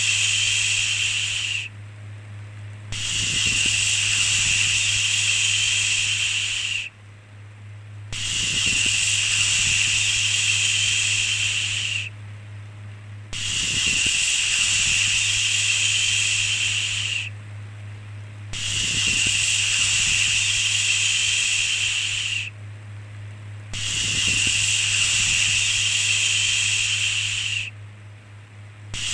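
Long "shhh" shushing sounds, each lasting about four seconds and repeating roughly every five seconds with short pauses between them, over a steady low hum.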